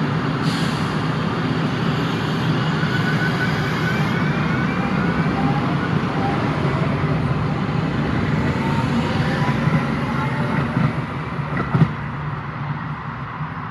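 A vehicle running steadily with a low rumble and faint rising whines, with a short knock near the end.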